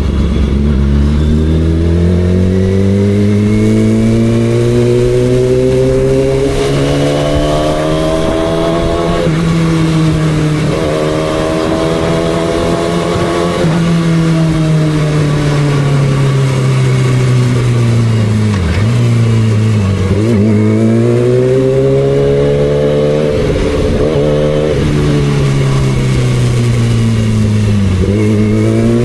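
2006 Yamaha R6's inline-four engine running under way, its pitch climbing steadily through the first several seconds, then falling and rising again, with several brief sharp dips in pitch in the second half.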